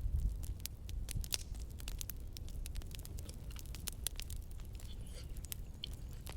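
Campfire crackling, with sharp, irregular pops and snaps over a low rumble.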